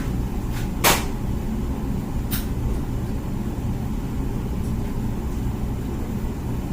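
Comfee countertop dishwasher running mid-cycle, a steady low rumble of its wash pump, with a sharp knock about a second in and a couple of faint clicks.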